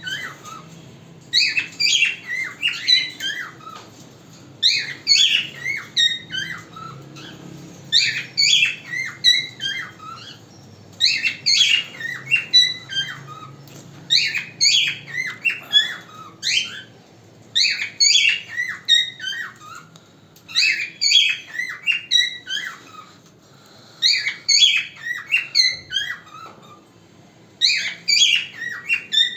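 All-white ino cockatiel singing its natural song: bouts of quick, whistled chirping notes, each phrase a couple of seconds long, repeated over and over with short pauses between.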